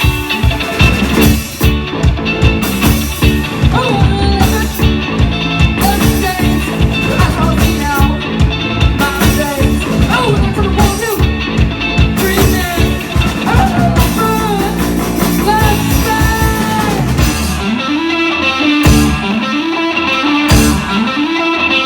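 Live rock band playing an instrumental passage: a guitar lead over bass and drums. The steady drumbeat drops away near the end.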